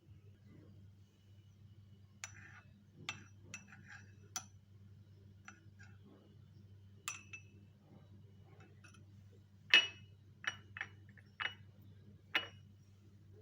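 A spoon clinking against a cup as saffron is stirred into milk: about a dozen irregular light clinks, each with a short ring, the loudest about ten seconds in. A faint low hum runs underneath.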